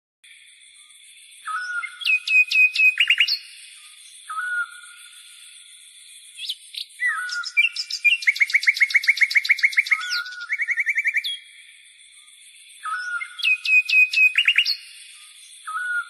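Birdsong: short whistled notes, chirps and fast trills in phrases, over a faint steady high-pitched buzz. The same run of phrases comes round again near the end.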